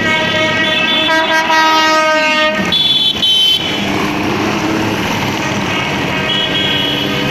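Vehicle horns sounding over running motorcycle engines. A long low horn blast sags in pitch and ends about two and a half seconds in, and a short higher toot follows at once. Engines rev after that, and another higher horn sounds near the end.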